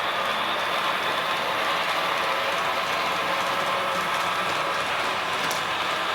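A 16-gauge model C62 steam locomotive with a Quantum sound system pulling a long rake of coaches along the track, giving a steady mechanical whirr of gearing and rolling wheels.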